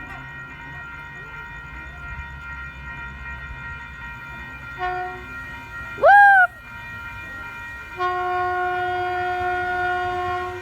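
Sprinter commuter train's horn sounding as the train arrives, over the low rumble of the train. There is a short toot about five seconds in, a loud whoop that rises in pitch about a second later, then a steady blast of about two and a half seconds near the end.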